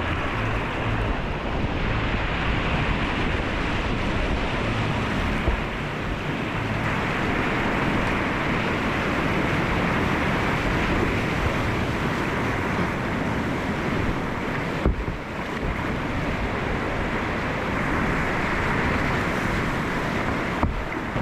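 Whitewater rapids rushing steadily around a kayak, with wind buffeting the microphone.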